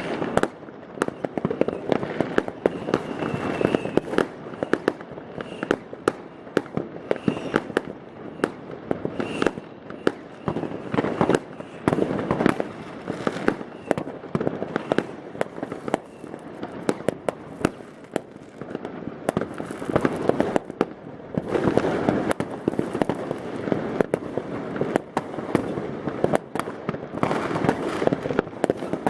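New Year's Eve fireworks and firecrackers: a dense, continuous barrage of bangs and pops, thickening into heavier crackling volleys about twelve and twenty-two seconds in.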